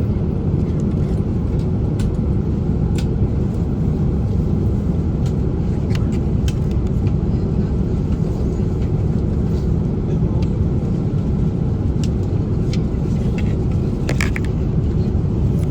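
Steady low rumble of a moving vehicle heard from inside the cabin, with a few faint clicks and knocks scattered through it.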